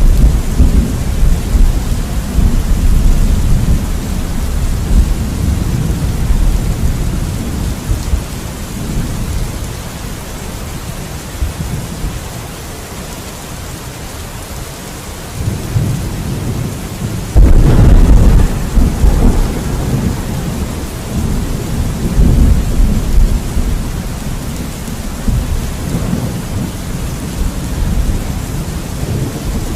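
Steady rain with rolling thunder rumbling throughout, easing for a few seconds midway, then a sudden loud thunderclap a little past halfway that rolls on in long rumbles.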